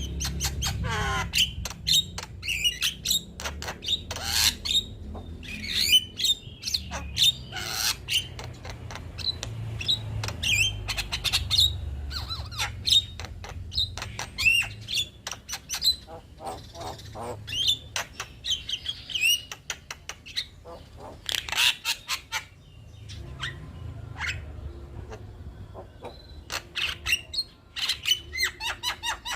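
Male Javan myna chattering: rapid runs of harsh squawks, clicks and short whistled notes in bouts, broken by brief pauses, over a low steady rumble.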